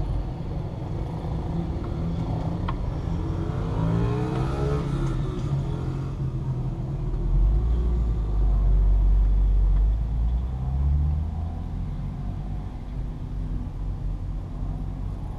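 Car engines running, heard from inside a stopped car's cabin. There is a rising engine note about four seconds in, and a louder deep rumble from about seven to eleven seconds in.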